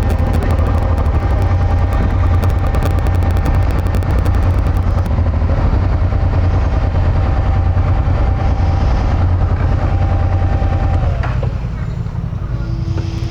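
Motorcycle running on the road, with a heavy low rumble from wind on the microphone; about eleven seconds in the engine note falls away and the sound drops as the bike slows to a stop.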